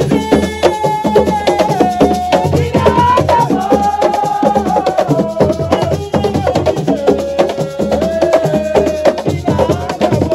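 Live assiko percussion music: fast, dense drum strokes with sharp wood-block-like clicks, under a melody of long held notes that steps from pitch to pitch.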